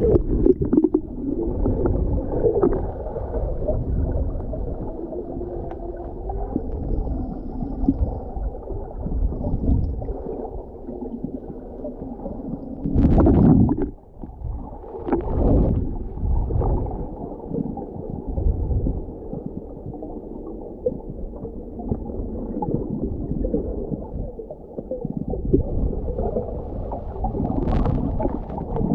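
Muffled underwater sound from a diver in a river pool: continuous gurgling and churning water with bubbles, and two louder surges about halfway through.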